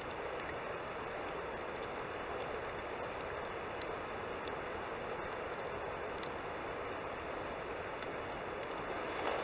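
Wood campfire burning: a steady hiss with small crackles and pops scattered through it.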